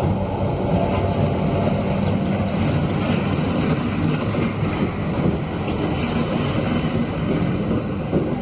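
Pakistan Railways train wheels rolling along the rails at slow speed: a continuous loud rumble with a low hum that weakens after the first few seconds, and a few faint clicks.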